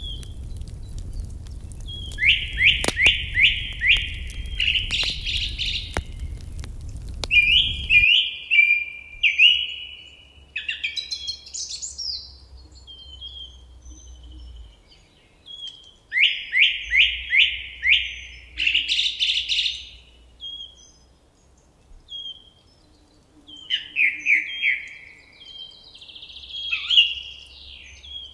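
Songbirds singing in repeated phrases of quick, downward-sweeping whistled notes, with shorter chirps between. A wood fire crackles with sharp pops under the birdsong for the first third, then cuts off suddenly.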